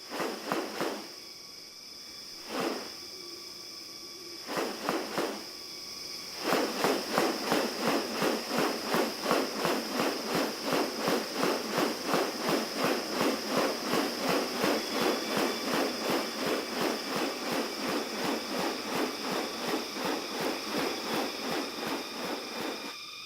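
Forest ambience with a steady high insect drone. Over it come a few sharp clicks early on, then, from about six seconds in, a fast regular run of sharp pulses, about three a second, that carries on to the end.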